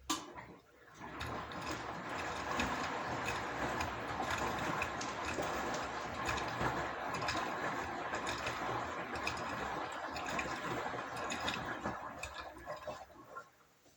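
Washing machine running: a sharp click, then a steady mechanical running sound full of small clicks and rattles that dies away near the end.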